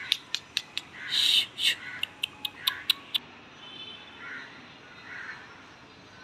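Bird calls: a harsh, noisy call about a second in, set among a quick run of sharp clicks over the first three seconds, then two faint short calls.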